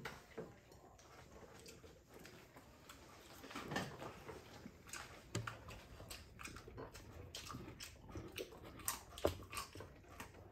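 Faint chewing and mouth sounds of people eating fried fish and rice by hand, with scattered small clicks and taps.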